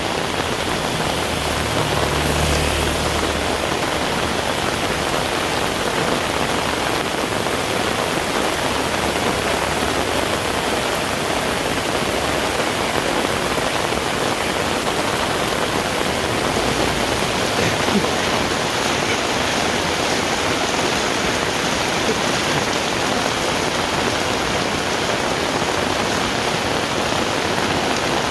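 Heavy rain falling steadily, a dense even hiss with no letup, and a brief low rumble about two to four seconds in.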